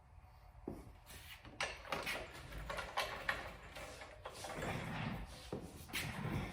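Irregular scraping, sliding and clunking of metal as a junkyard garden tractor is shifted backward on a jack, starting about a second in and growing louder toward the end.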